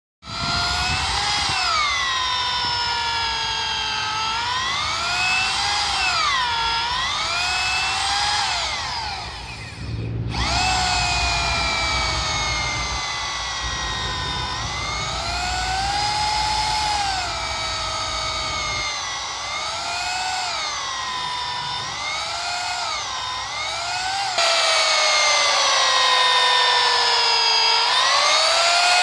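Power drill boring holes into logs for mushroom plug spawn. The motor's whine repeatedly dips in pitch as the bit bites into the wood, then rises again. It stops briefly about ten seconds in.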